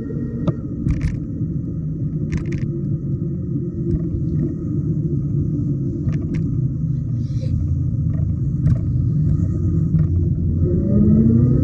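Riding a Schwinn Hurricane e-bike: steady rumble of wind and road noise that grows slowly louder, with scattered light clicks and a faint steady whine. A rising tone comes in near the end.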